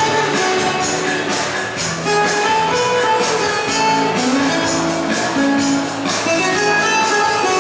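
Live performance of a Christmas carol: held melodic notes over a steady tambourine rhythm.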